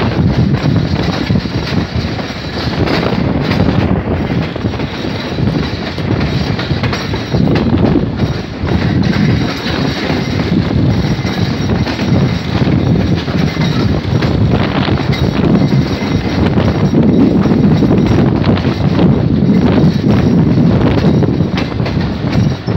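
Passenger train coach running along the track, heard from its open doorway: a steady rumble of steel wheels on rail, with frequent clicks and clatter as the wheels pass over rail joints and junction points.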